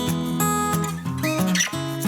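Background music: a strummed acoustic guitar playing steady rhythmic chords.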